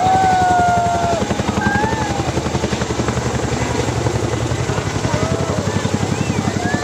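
Helicopter flying overhead, its rotor beating in a fast, even pulse, with people's voices calling out over it.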